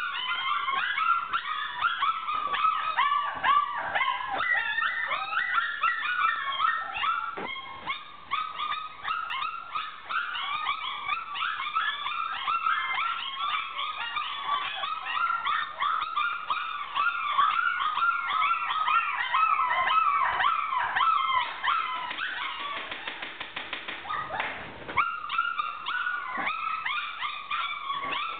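A litter of four-week-old puppies crying loudly, many high-pitched cries overlapping without a break. Near the end, a few seconds of rougher, buzzing cries.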